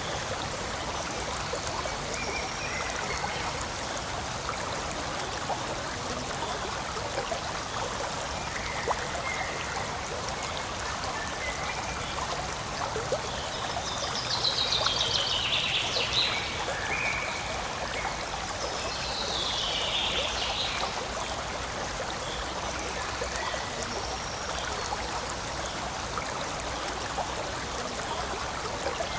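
Forest stream running steadily, a continuous rush and trickle of water. Twice around the middle, short bright chirping sounds rise above it.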